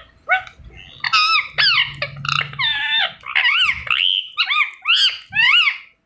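Indian ringneck parrot vocalizing: a quick run of short, high calls, each rising then falling in pitch.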